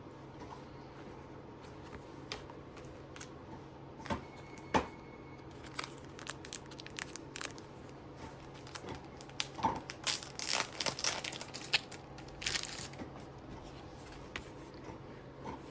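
Paper or plastic packaging handled by hand, crinkling and tearing in short rustles with small taps and clicks. The rustling is busiest and loudest about ten to thirteen seconds in.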